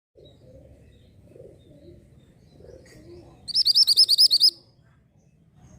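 Orange mantenan (a minivet) singing: one high, rapid trill of about ten quick repeated notes lasting about a second, midway through.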